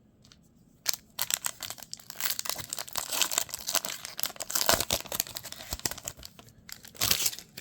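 Wrapper of a pack of trading cards being torn open and crinkled by hand: a dense run of crackling that starts about a second in and stops near the end.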